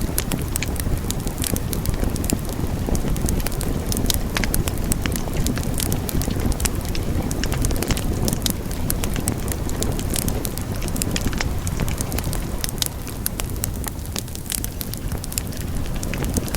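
Wood fire burning: a steady low rumble of flames with frequent sharp crackles and pops from the burning logs, scattered irregularly.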